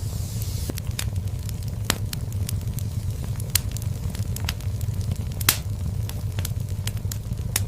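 Fire burning in a fireplace: a steady low rumble of flames with frequent sharp crackles and pops at irregular intervals. The loudest pop comes about two-thirds of the way through.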